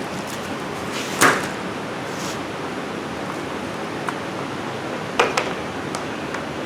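Steady background hiss with a short rustle about a second in and two quick clicks around five seconds, from gaskets and their packaging being handled.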